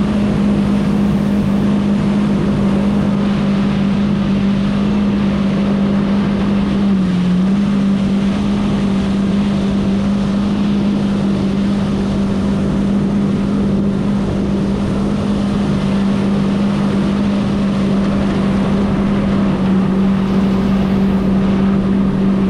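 Jet ski engine running at a steady pitch, with a brief dip and recovery about seven seconds in, under wind noise on the microphone.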